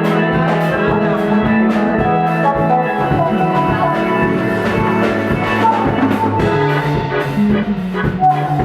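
Live rock band playing an instrumental passage, with drums keeping a steady beat under sustained pitched notes.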